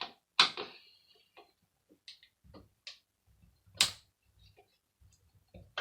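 Scattered clicks and light knocks of a screwdriver and hands working at the screws on the metal casing of a hand air dryer, with two sharper knocks, one about half a second in and one near four seconds.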